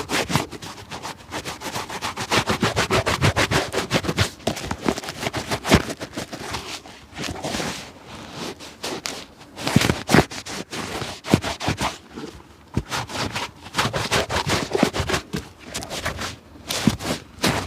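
Rapid, repeated scraping strokes worked against a shoe during restoration, in quick runs broken by short pauses about eight and twelve seconds in.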